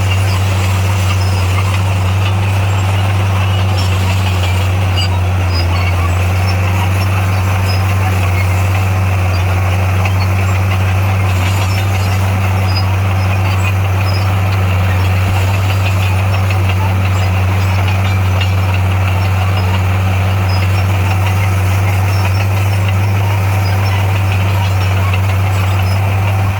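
Bulldozer's diesel engine running at a steady speed, a continuous low drone that holds unchanged throughout.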